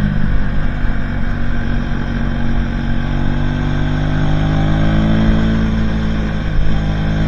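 Aprilia Tuono 125's single-cylinder four-stroke engine pulling under load through a Leo Vince aftermarket exhaust. Its pitch drops just at the start, then rises steadily over several seconds as the bike accelerates.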